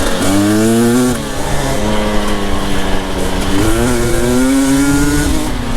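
Two-stroke enduro dirt bike engine revving under throttle as it is ridden, its pitch climbing and dropping back twice, with a steadier lower engine note in between.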